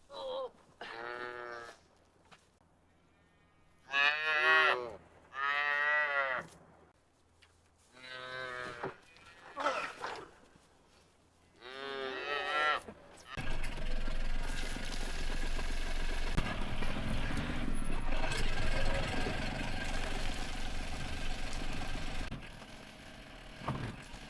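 Calves bawling, about seven separate calls, some short and some drawn out. After about thirteen seconds the calls give way to a dense, steady stretch of noise that lasts about nine seconds.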